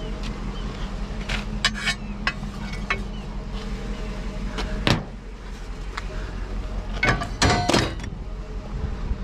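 Scattered knocks and clicks of scrap being handled over a steady low hum, with a loud knock about five seconds in and a quick run of knocks around seven to eight seconds in.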